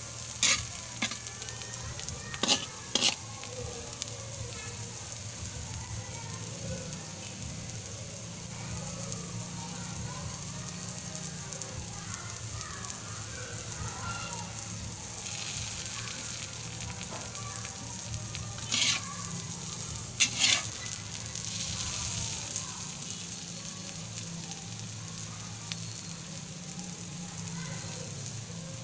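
Eggs with malunggay leaves, onion and tomato frying in oil in a pan: a steady sizzle with a few sharp pops, three near the start and a couple about two-thirds of the way through.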